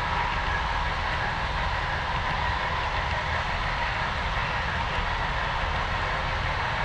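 HO scale model train running steadily along the layout track.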